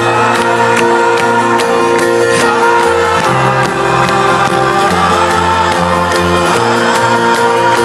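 Live folk-rock band playing a loud instrumental passage: a steady strummed rhythm with a beat, held chords and a bass line that shifts every second or so.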